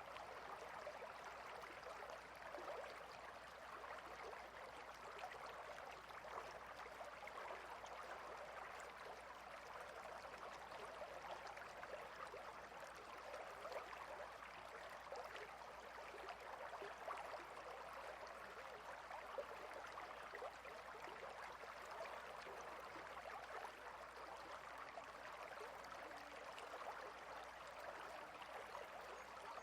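Clear river flowing and babbling over and between rocks, a faint, steady rush of water.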